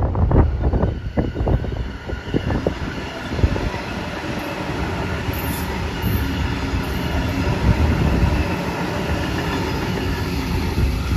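Double-deck electric suburban trains passing close by. Wheels clack over rail joints for the first few seconds, then the sound settles into a steady rumble with a faint high wheel whine.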